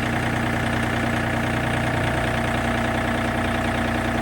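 John Deere tractor engine running steadily at low idle while its hydraulics raise a load.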